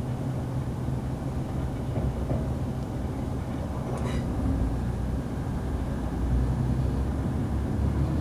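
Class 185 diesel multiple unit under way: steady low drone of its underfloor Cummins diesel engine over the rumble of wheels on rail. A brief high-pitched squeak comes about four seconds in.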